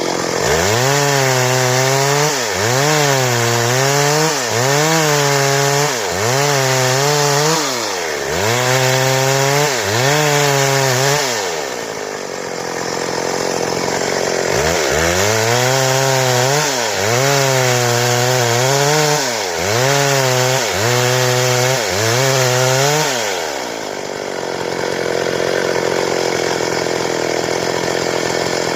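Stihl two-stroke chainsaw cutting boards, its engine pitch rising and falling over and over in quick surges as it works through the wood. There are two such runs with a pause of a few seconds between them, and it settles into a steadier, lower noise near the end.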